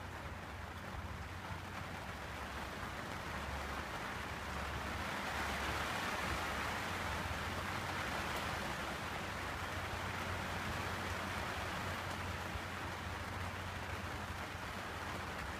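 Steady rain falling on a sailboat's deck and windows, growing a little heavier about five seconds in, over a low steady hum.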